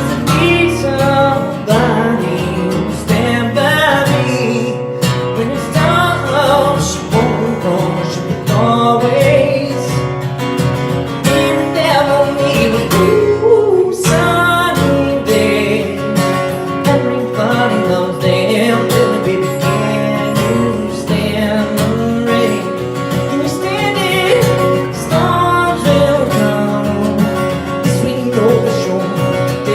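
Taylor steel-string acoustic guitar playing a song, strummed chords mixed with picked melody notes.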